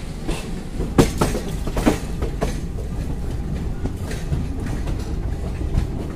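Passenger train running, heard from on board: a steady rumble with irregular clacks of the wheels over rail joints and points, the loudest knocks about one and two seconds in.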